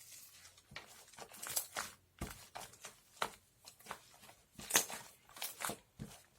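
Paper crafting materials being handled: irregular short crinkling and tearing rustles with light clicks and taps.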